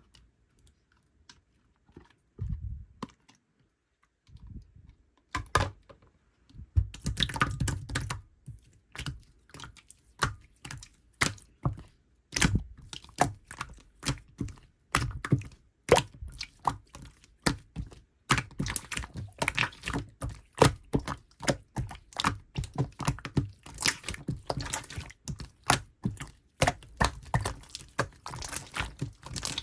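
Pink clear slime being squeezed, poked and stretched by hand, making a dense run of wet sticky clicks and pops. It starts sparse and becomes near-continuous about a quarter of the way in. The slime has gone soft and runny.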